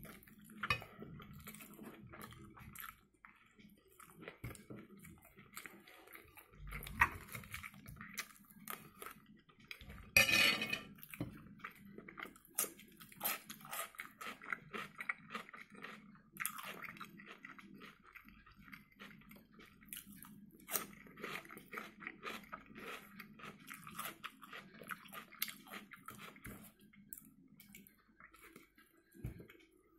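Close-up chewing and biting of fried eggs and smoked hunting sausages, a continuous run of wet mouth sounds and short clicks, with louder bites about a third of the way in.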